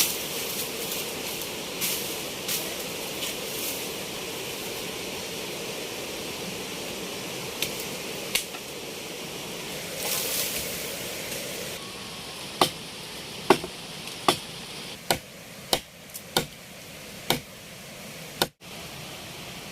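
A steady hiss, then from about two-thirds of the way in a run of sharp knocks, roughly one a second, like chopping or pounding food.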